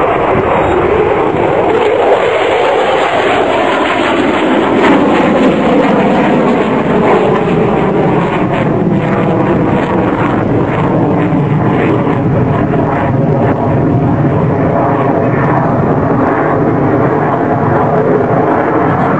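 Loud, continuous noise of a jet aircraft flying past. The deep rumble thins out about four seconds in, leaving a steady roar whose tone shifts slowly as the aircraft moves.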